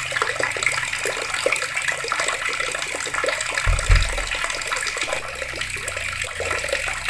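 Water running from taps and splashing: a steady gush with many small splashes. A brief low thump a little past halfway.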